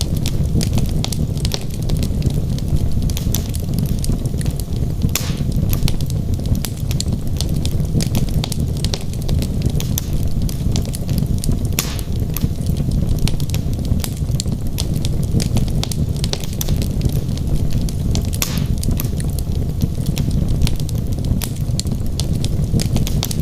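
Wood fire burning in a fireplace: a steady low rumble of flames with frequent sharp crackles and pops from the logs, a few of them louder.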